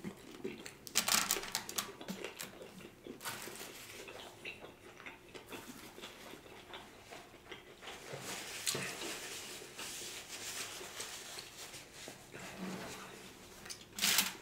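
Close-miked chewing and wet mouth sounds of a person eating a seafood birria taco, coming in short, uneven bursts, with a paper napkin handled about eight seconds in.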